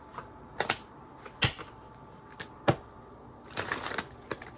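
Tarot cards being handled on a table: irregular sharp clicks and snaps, with a quick flurry of them about three and a half seconds in.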